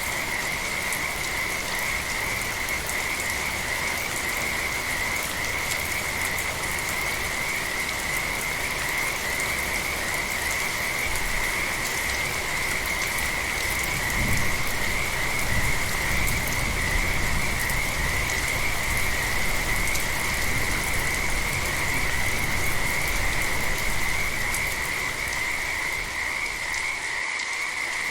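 A chorus of frogs calling steadily in a high, even band over light rain hissing. A low rumble swells in the middle.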